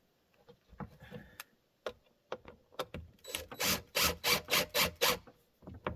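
A screw being driven in by hand: scattered clicks and knocks, then a quick, even run of about eight strokes over a couple of seconds, about halfway through.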